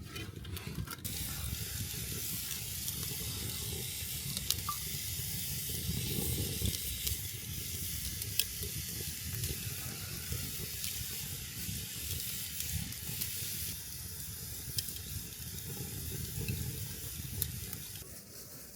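Fallen leaves burning hard in a drum can: a steady low rush of the fire with hissing and a few sharp crackles scattered through.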